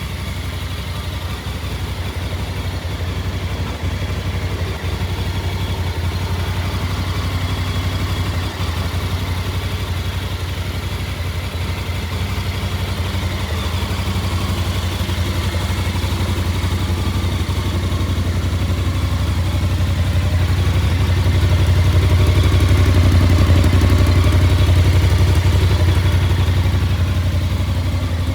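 Voge 625 DSX motorcycle engine idling steadily, growing louder for a few seconds about three-quarters of the way through before settling back.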